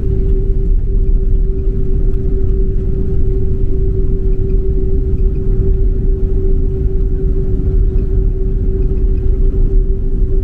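Boeing 767-300 cabin noise in flight: a loud, steady low rumble of engines and airflow, with a constant hum running through it.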